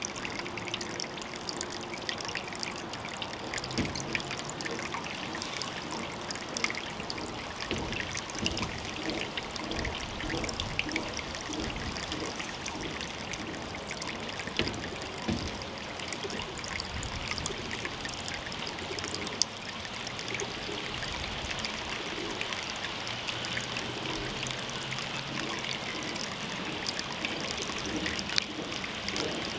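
Water trickling and splashing steadily into a pond, with many small irregular drips and splashes.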